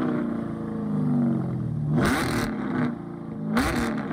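Car engine revving up and down, with two short rushing bursts of noise about two seconds and three and a half seconds in.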